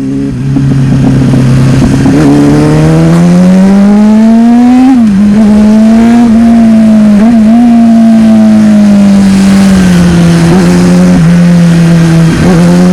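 Sport motorcycle engine heard from the saddle while riding, revs climbing for a few seconds, a quick dip about five seconds in like a gear change, then holding fairly steady and easing off slightly, with rushing noise over it.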